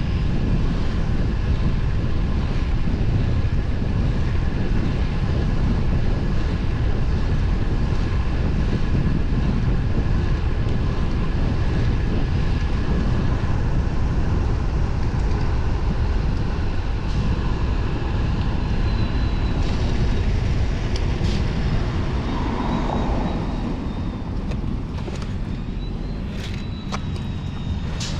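Steady wind rush over the microphone, with road noise from a moving road bike. The noise eases slightly near the end, and a few sharp clicks follow.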